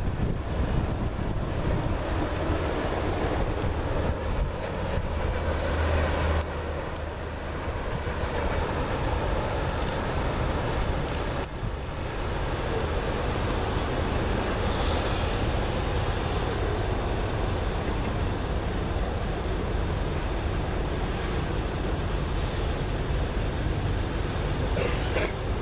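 Norfolk Southern freight train rolling past, a steady rumble of cars on the rails throughout.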